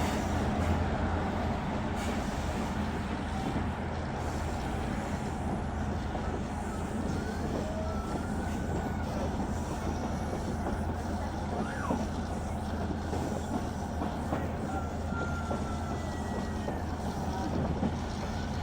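Passenger train running along the track: a steady rumble, with a few faint short squeals.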